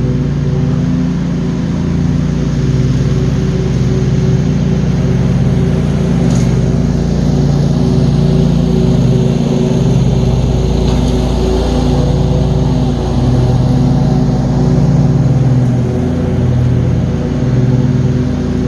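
John Deere QuikTrak 652R stand-on mower's engine running steadily at mowing speed, a loud even drone that swells and dips a little.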